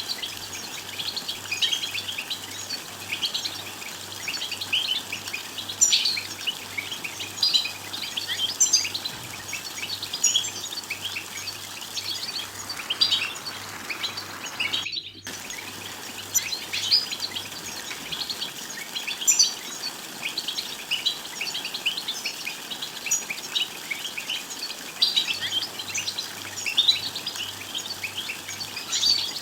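European goldfinches twittering and singing: a dense, fast run of short high chirps and trills, with a very brief break about halfway through.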